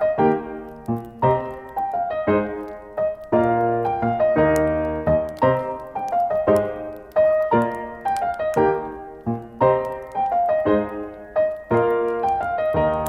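Slow, gentle piano music, single notes and soft chords struck one after another and left to ring. Faint crackling of a campfire lies underneath.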